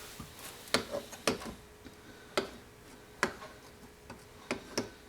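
Light, sharp clicks of small metal tools being handled and set down, about six scattered ticks at uneven intervals, over a faint steady hum.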